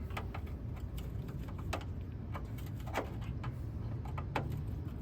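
Metal parts and hand tools clinking and clicking every second or so while an exhaust system is being taken apart, over a steady low hum.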